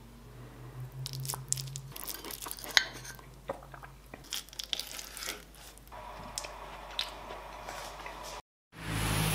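Close-up eating sounds: biting into and crunchy chewing of a chocolate-topped baked dessert, with irregular sharp clicks. Near the end it cuts off abruptly and gives way to street traffic noise.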